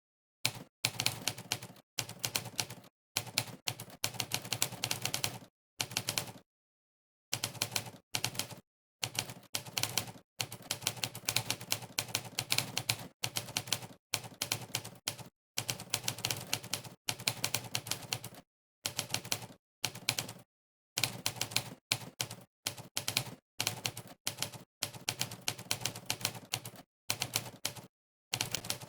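Monkeytype's 'typewriter' keypress sound effect: a sampled typewriter keystrike played for each key typed. It comes in quick runs of many strikes a second, broken by short, completely silent pauses, and starts about half a second in.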